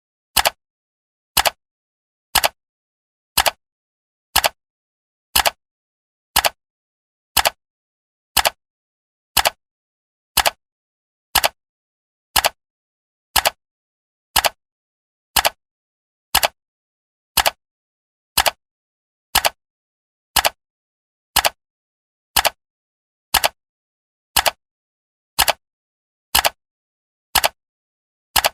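Countdown timer's clock tick sound effect: one sharp tick every second, evenly spaced, with silence between ticks.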